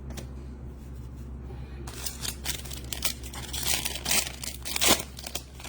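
Trading card pack wrapper crinkling and tearing as packs are opened and the cards handled, a dense run of rustling and crackling from about two seconds in until near the end, over a steady low hum.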